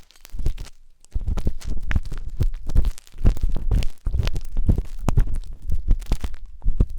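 Wooden skewer scraping and rubbing inside the ear of a binaural microphone: close-up ear-cleaning scratches in irregular strokes with muffled low rumbling, pausing briefly about a second in.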